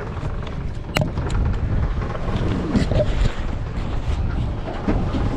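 Wind buffeting the microphone on a boat at sea, a steady rumble, with a sharp click about a second in.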